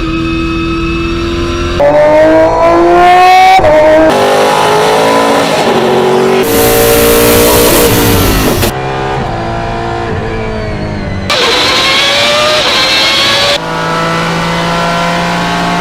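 A fast montage of different race cars accelerating hard. Each clip has an engine note climbing through the revs with a high straight-cut gearbox whine, and is cut off abruptly after two or three seconds.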